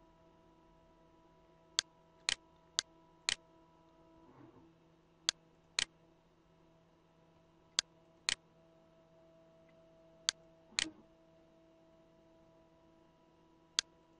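Computer mouse button clicks, sharp and in pairs about half a second apart, six pairs in all, over a faint steady electrical hum.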